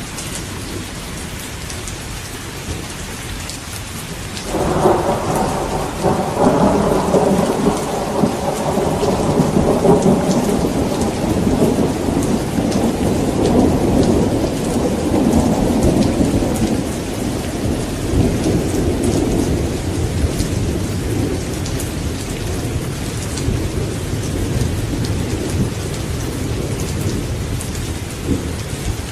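Steady rain falling, with a long rumble of thunder that breaks in suddenly about four and a half seconds in, swells, and slowly dies away over the next twenty seconds.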